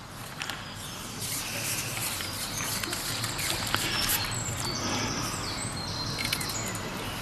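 Outdoor waterside ambience: birds singing, with a few high whistled notes held briefly through the middle, over a steady background hiss and a few light clicks.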